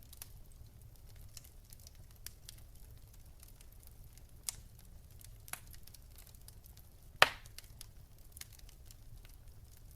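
Wood fire crackling: scattered sharp pops and snaps at irregular intervals over a faint low rumble, with one loud pop about seven seconds in.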